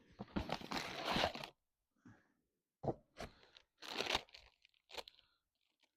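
Plastic packet of corn flour crinkling as it is handled: a long rustle at the start, then several short crinkles.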